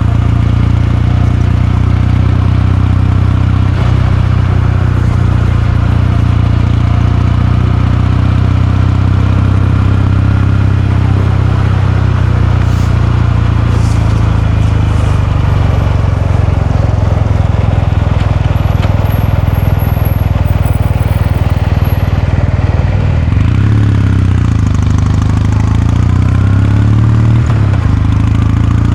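Kawasaki Meguro K3's air-cooled 773 cc parallel-twin engine and exhaust running at a steady speed under way. Near the end the engine note dips and then climbs again.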